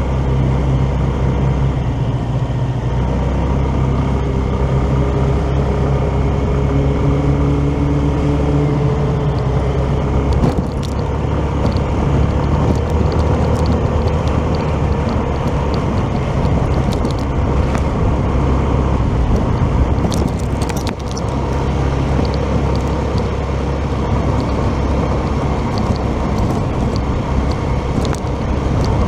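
Motorcycle engine running at a steady cruising speed, with road and wind noise; a few brief knocks about a third and two-thirds of the way through.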